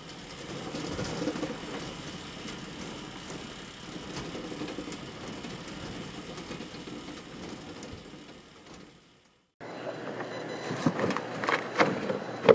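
Coleman rooftop RV air conditioner running with a rattling, clattering mechanical noise, the sign of its failing fan motor. After a brief break, a few sharp knocks near the end.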